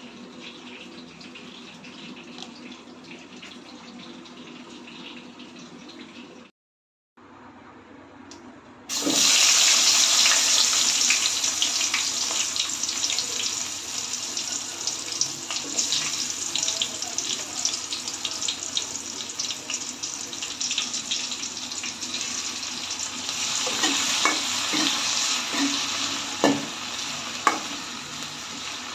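Chopped onions hitting hot oil in a metal kadai about nine seconds in and frying with a loud, steady sizzle full of crackles and pops. A softer steady hiss comes before it. Sharper clicks and taps, like a spatula stirring against the pan, come near the end.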